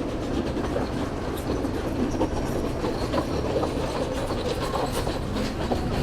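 Passenger train running along the track, heard from on board: a steady rumble and rattle with scattered clicks of the wheels over the rails.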